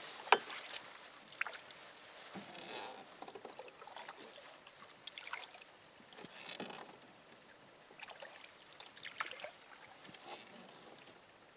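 Canoe paddle strokes: irregular small splashes and drips of water, with a sharp knock about a third of a second in.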